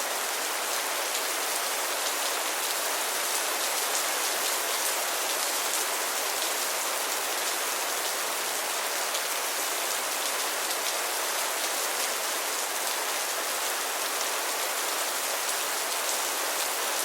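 Steady rain falling, a dense even hiss with fine patter of drops.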